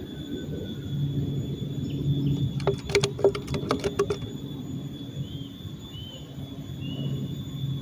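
A steady low rumble of running water, with a quick run of sharp clicks about three seconds in and a few short high chirps near the end.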